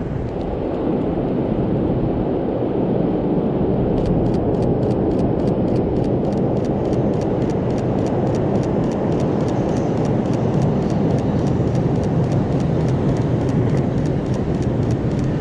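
A train passing close by the platform: a loud, steady rumble that builds in the first second and holds. From about four seconds in, a regular sharp clicking runs over it, about two or three clicks a second.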